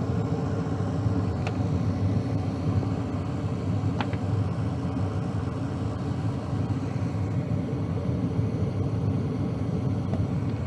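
Trane gas furnace firing on a call for heat, its burners lit and inducer motor running: a steady low rumble, with two faint ticks.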